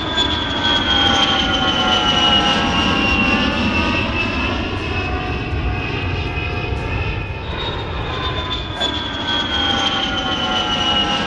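Aircraft engines passing, a loud steady roar with a high whine that falls slowly in pitch. The whine starts high again about seven seconds in and falls a second time.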